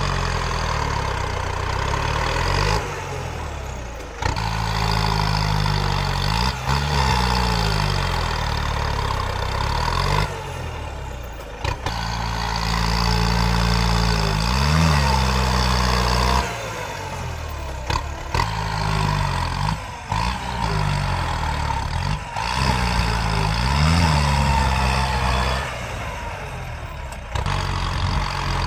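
Tractor engine running under varying load, its pitch rising and falling repeatedly, with abrupt shifts in sound every few seconds.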